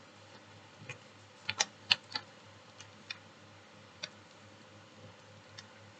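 A sheet of origami paper being handled and folded: scattered short, sharp crinkles and taps, clustered about one and a half to two seconds in, over a faint low hum.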